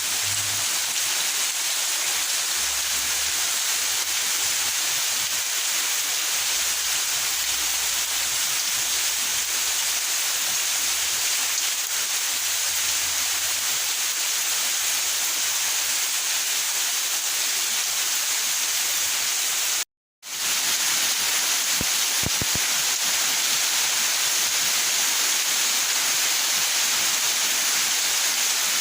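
Steady rain, a dense even hiss with no let-up. It cuts out to silence for a moment about twenty seconds in, then resumes.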